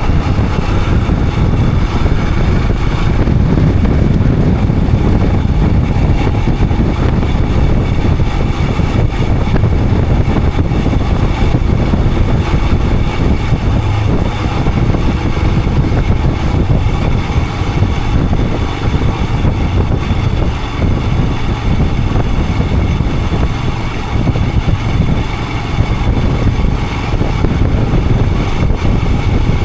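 Royal Enfield Himalayan 411's single-cylinder engine running steadily on the move, heard through an action camera's microphone with a constant noise.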